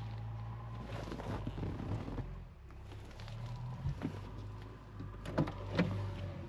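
Mahindra Bolero's engine running with a steady low hum, with a few sharp clicks and knocks in the cabin, most of them in the second half.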